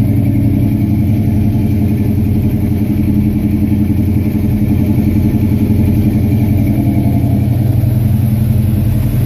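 Two car engines idling steadily together: a 1956 Dodge Coronet and a 1951 Chevrolet wagon fitted with a 400 cubic inch Chevy small-block V8.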